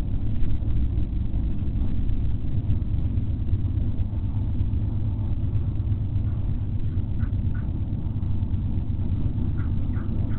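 Steady low outdoor rumble picked up by the nest-cam microphone, with a few short, faint bird calls in pairs near the end.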